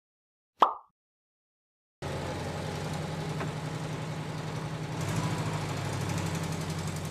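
A brief sharp sound about half a second in, then from about two seconds in a car engine running steadily.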